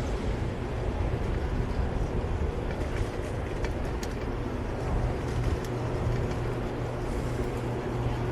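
Steady rumble of wind on a bike-mounted camera's microphone mixed with the noise of city street traffic while riding, with a few faint ticks in the middle.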